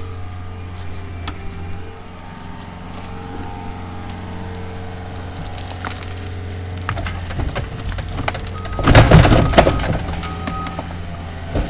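Heavy earthmoving machine running steadily during backfilling, with a loud burst of clattering and crunching about nine seconds in as material is moved.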